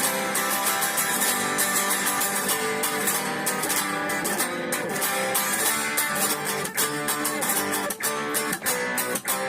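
Guitar played with fast bridge-muted (palm-muted) picking: a rapid, even run of chopped strokes through changing chords, with a few brief breaks near the end.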